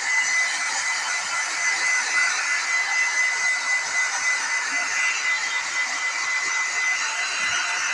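Hair dryer running steadily: an even rushing hiss with a thin, steady high whine running through it.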